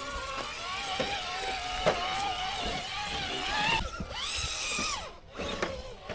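RC rock crawler's electric motor and gearbox whining as the truck crawls over rough ground, the pitch wavering with the throttle and climbing about four seconds in, with a few sharp clicks.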